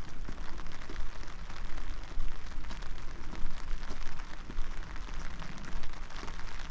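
Steady rain, with many individual drops striking close to the microphone as quick ticks, over a low rumble.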